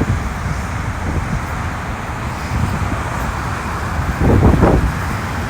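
Wind buffeting the microphone over a steady low outdoor rumble, with a stronger gust a little over four seconds in.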